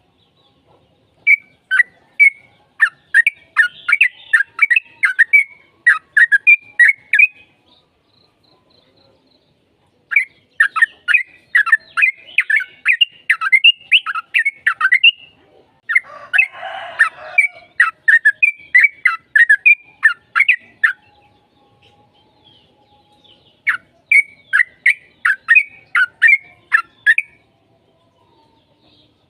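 Sooty-headed bulbul singing: fast runs of loud, bubbling notes in four bouts separated by short pauses, with one harsh rasping call about two-thirds of the way through.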